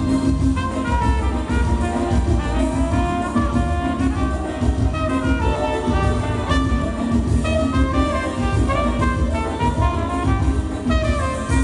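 Dance band playing an instrumental passage, with brass horns carrying the melody over a steady bass beat.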